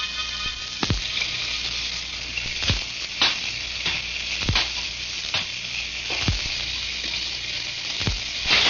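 Radio-drama sound effect of steady rain, with slow footsteps about one a second walking through it and a sharper knock near the end.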